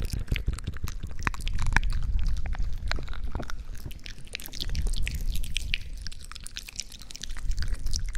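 Close-miked ASMR sounds: a dense run of small sticky, wet clicks and squishes over a steady low rumble.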